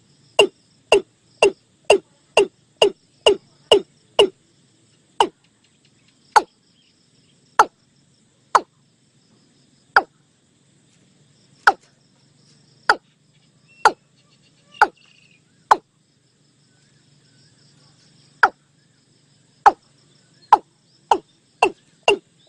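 Nok ee-klung bird calling: a series of short, deep, clipped notes. They come about two and a half a second at first, slow to single notes a second or more apart, pause briefly, then speed up again near the end.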